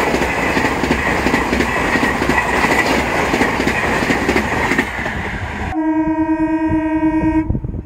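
Rajdhani Express coaches passing at speed, a steady loud rumble with wheels clattering over the rail joints. About six seconds in, the sound cuts abruptly to one long steady horn blast, lasting about a second and a half, from an approaching EMU local train.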